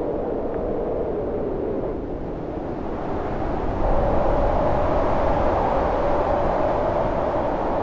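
Storm wind howling in steady gusts, its moaning pitch wavering, rising and growing louder about halfway through, over a low rumble.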